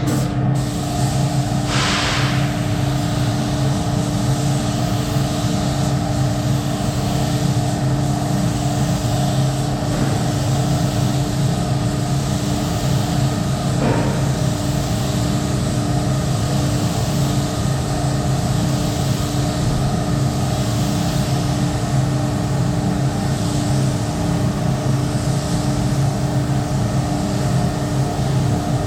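Paint booth ventilation fan running with a steady, loud hum and airflow hiss, the hiss swelling and easing in slow waves.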